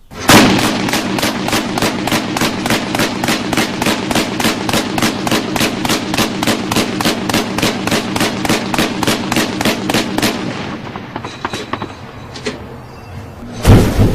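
Rapid gunfire: a steady string of sharp shots, about three to four a second, for roughly ten seconds. It thins to a few scattered shots, then a new loud sound bursts in near the end.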